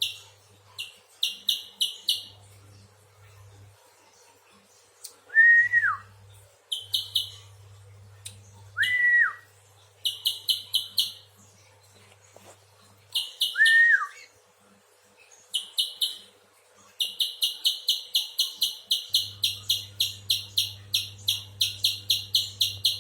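Spiderhunter calling: short groups of sharp, high chip notes and three short whistles that slide downward. Near the end it breaks into a long, rapid, even series of chips, about five a second.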